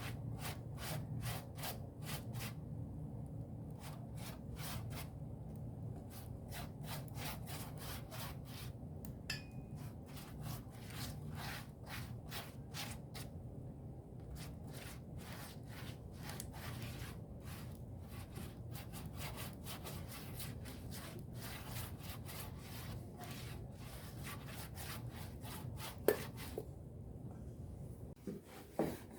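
Rhythmic rubbing strokes of wood on wood, about two or three a second, typical of a long thin rolling pin (oklava) rolling out thin sheets of börek dough on a wooden board. A single knock comes near the end.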